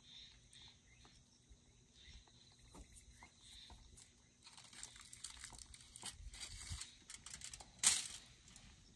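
Soft crinkling and crackling, sparse at first and busier from about halfway through, with one louder crackle near the end.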